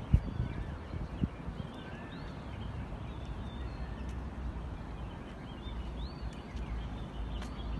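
Small birds chirping in short calls that rise and fall in pitch, scattered throughout, over a steady low rumble. Two sharp knocks near the start.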